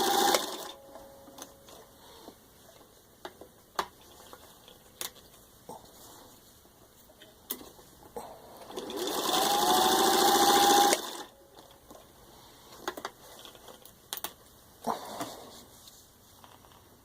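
Singer 15-91 sewing machine, its potted motor gear-driving the needle, stitching through four layers of thin leather: one run stops about half a second in, and a second run of about two seconds near the middle spins up with a rising whine. In between come scattered clicks and knocks from handling the machine and the leather.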